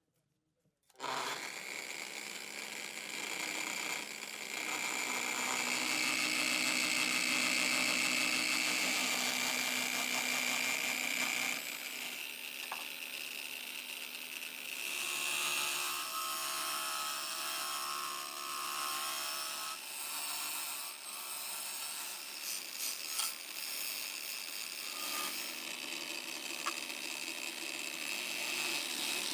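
A power tool starts about a second in and runs continuously, its tone shifting a few times as it bears on the work.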